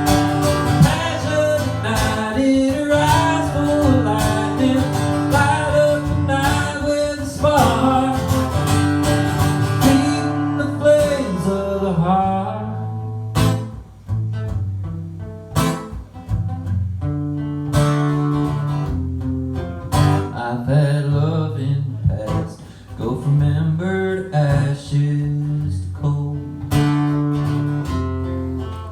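Live country song played on acoustic guitar, with a busy melodic passage at first that thins to strummed chords after about ten seconds.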